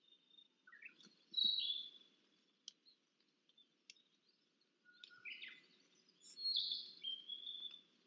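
A wild bird singing two song phrases of whistled, gliding notes: a short one about a second in and a longer one from about five seconds in.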